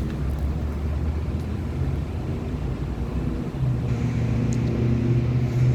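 Steady low motor hum, its pitch stepping up and getting stronger a little past halfway.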